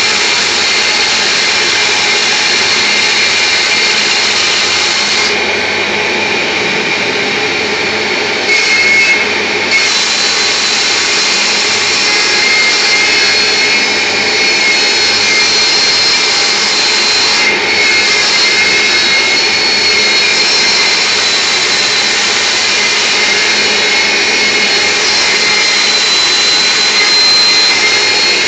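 Lathe running and turning beech wood rollers: a loud, steady machine noise with a high whine, the hiss easing a few times as the cut changes.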